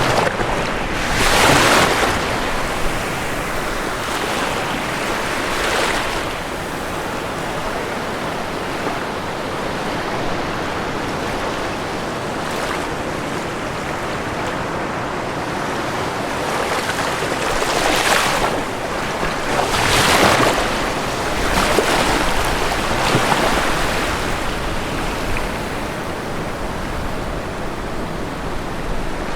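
Ocean waves breaking on a shore: a steady wash of surf with several louder breakers, one about a second in and a cluster in the second half.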